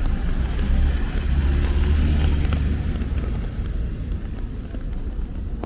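A motor vehicle passing on a rain-wet street: a low engine rumble and tyre hiss that swell over the first three seconds and then fade away.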